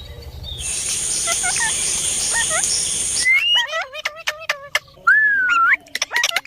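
Parrot chirping and whistling in short gliding calls and clicks, with one longer rising whistle. A steady hiss with a high thin tone runs under faint chirps in the first half and stops suddenly about three seconds in.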